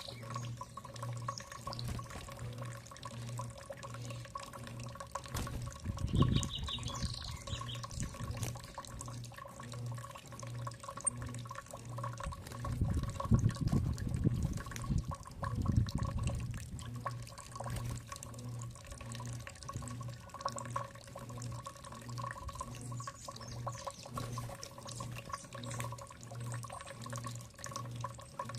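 Water running over a steady low hum that pulses at an even rate, with a short bird trill about six seconds in and a few dull knocks around the middle.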